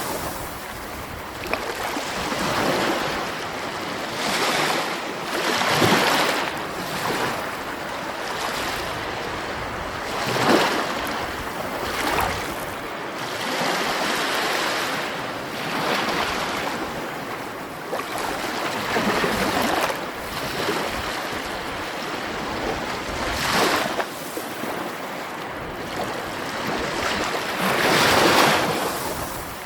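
Sea waves breaking: a continuous wash of surf that swells into a louder surge every few seconds and then eases back.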